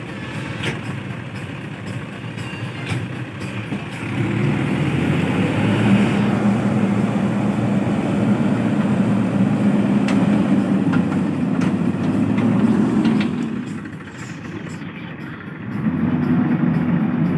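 Heavy diesel engine working hard while a JCB 3DX backhoe loader pulls a stuck tractor trolley free. It rises to a louder, steady working note about four seconds in, drops back briefly around fourteen seconds, then picks up again.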